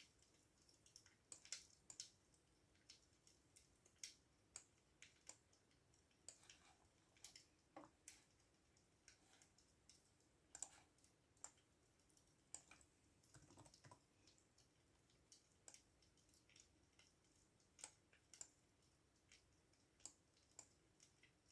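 Computer keyboard typing, faint and unhurried: single keystrokes clicking at an uneven pace, about one or two a second, with short pauses between runs.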